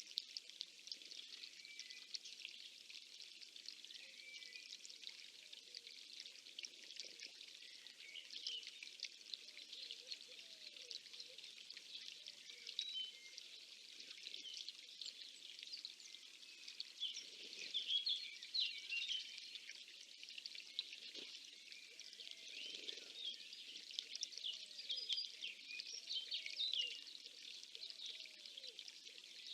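Spring bird chorus: many small songbirds chirping and singing over one another, with louder flurries of song about halfway through and again near the end. Beneath them, a lower bird call repeats its short falling note about once a second in the second half.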